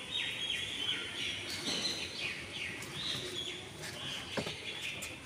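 Birds chirping, a rapid series of short high calls that keeps on, with a light knock about four seconds in.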